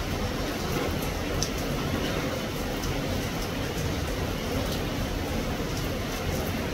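Steady rain falling, an even continuous hiss with a deep rumble underneath and a few faint drop ticks.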